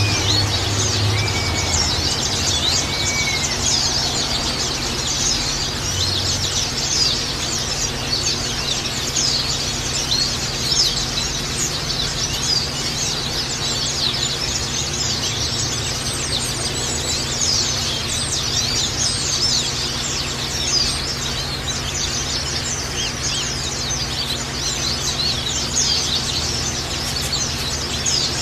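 A flock of white-eyes (pleci) chirping and twittering without pause: a dense chorus of many short, high notes overlapping throughout, over a faint steady low hum. It is a lure recording of the kind played to pet white-eyes to set them singing.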